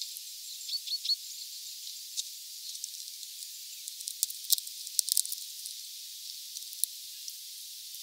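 Sharp irregular clicks of a European greenfinch pecking and cracking sunflower seeds on a feeder tray, loudest and thickest around four to five seconds in, over a steady high hiss. Three short high bird chirps about a second in.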